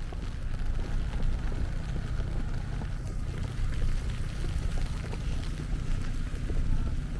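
Steady low rumble of wind buffeting the microphone outdoors in a snowstorm, with faint scattered crackles.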